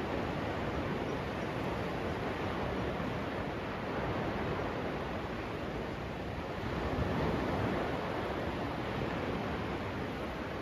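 Surf washing onto the beach, a steady hiss that swells a little about seven seconds in, with some wind on the microphone.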